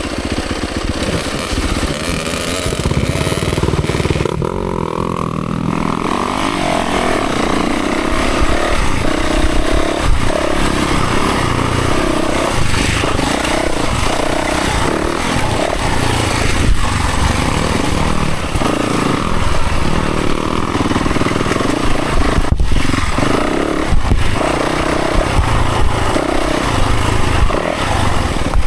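Dirt bike engine running hard, its pitch rising and falling as the throttle opens and closes.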